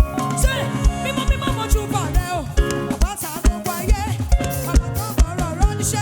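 Live band playing upbeat African gospel praise music, with a steady kick-drum beat and a lead melody that slides and bends in pitch.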